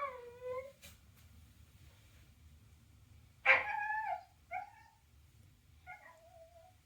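Shiba Inu whining: several high, falling whines, the loudest about three and a half seconds in, with two shorter, fainter ones after it.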